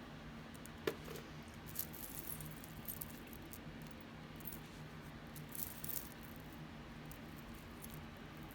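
Costume jewelry being handled: light clicks and small rattles of chains and beads, loudest about a second in, around two seconds in and near six seconds, over a low steady hum.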